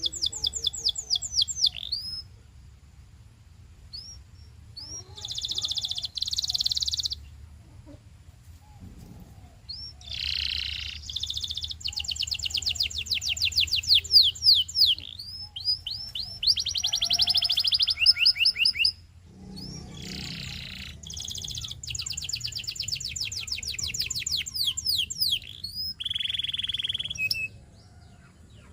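Domestic canary singing: long phrases of rapid trills, each a fast run of repeated high notes, with short pauses between phrases.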